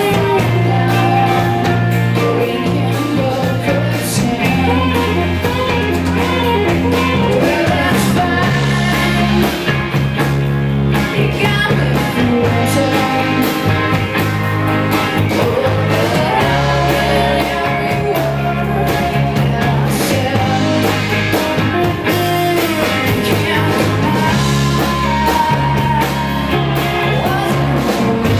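Rock band playing live, with electric guitars over bass and drums and a voice singing at times.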